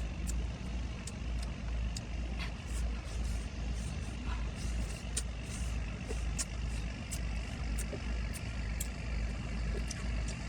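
Someone eating hot fish, with scattered small clicks and smacks of chewing and lip noise over a low, uneven rumble.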